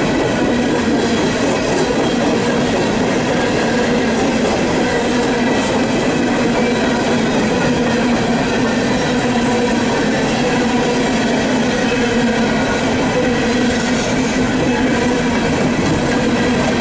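Loaded or empty coal hopper cars of a CSX freight train rolling past close by: a steady, unbroken rumble of wheels on rail with a constant ringing tone running through it.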